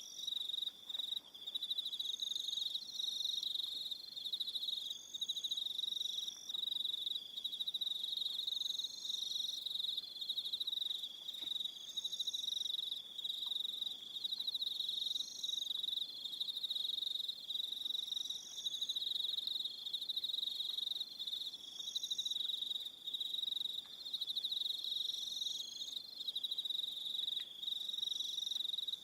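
A chorus of crickets chirping on an evening: one continuous high trill, with other shorter, higher trills starting and stopping over it.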